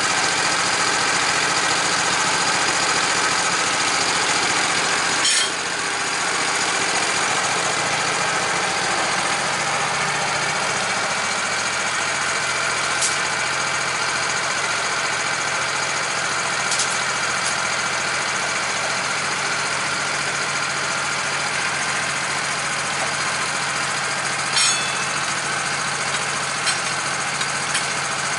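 A motor running steadily, with a few faint clicks.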